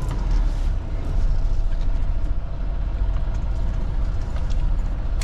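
Semi truck's diesel engine running with a steady low rumble, heard from inside the cab during a backing manoeuvre.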